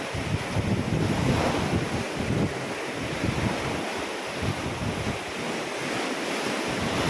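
Ocean waves splashing and washing in, a steady hiss of surf, with wind buffeting the microphone in an uneven low rumble.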